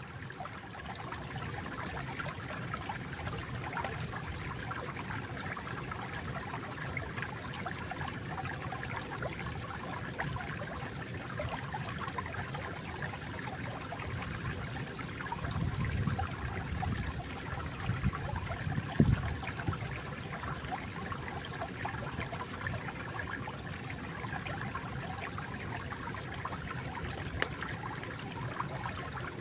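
Water flowing steadily, with a stronger low rush for a few seconds just past the middle that ends in a brief knock, and a single sharp click near the end.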